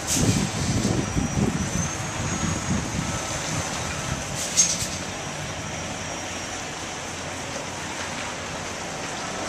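Delivery truck engine rumbling, loudest in the first three seconds and then settling to a steady low running sound, with a single sharp clack about four and a half seconds in.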